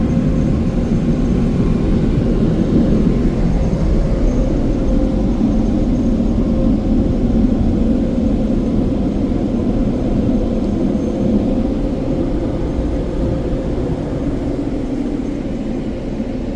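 A steady mechanical rumble with a faint steady hum running through it.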